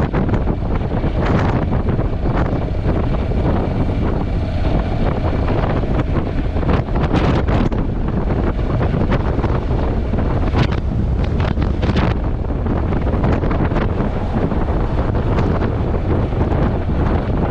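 Wind buffeting a GoPro camera's built-in microphone on a moving motorcycle: a loud, steady rumble with gusty surges, covering the other sounds of the ride.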